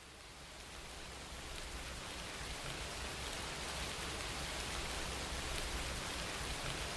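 Rain falling as a steady hiss, fading in over the first few seconds and then holding even.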